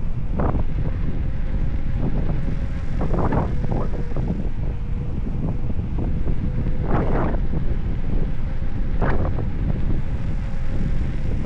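Wind buffeting the microphone during a bicycle ride: a steady low rumble, broken by a few short noisy rushes every few seconds.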